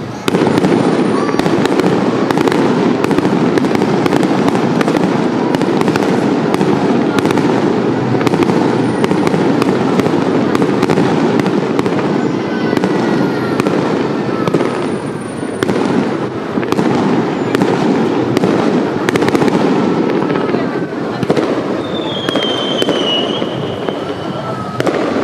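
Aerial fireworks display in full barrage: a dense run of bangs and crackling over a continuous rumble, starting suddenly just after the start, with a few high gliding whistles near the end.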